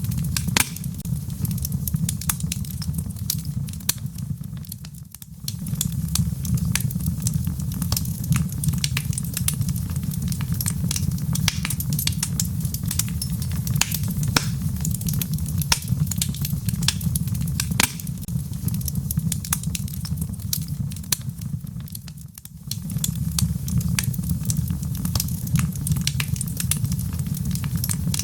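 Wood fire in a fireplace crackling and popping over a steady low rumble of flames. The sound dips briefly twice, about five seconds in and again past twenty seconds, then returns.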